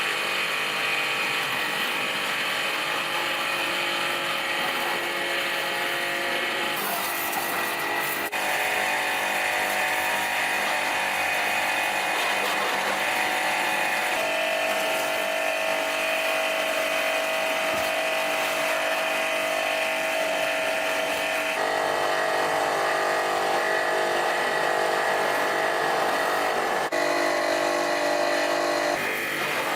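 An electric power tool running steadily with a high, whining motor tone that changes in pitch several times.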